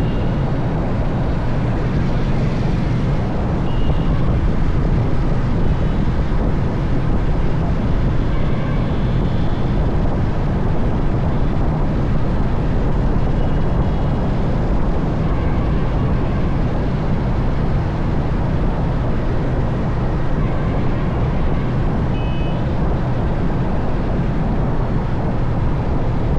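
Steady road and wind noise of a moving motorbike, a low rumble that does not change, with a few brief high beeps heard over it now and then.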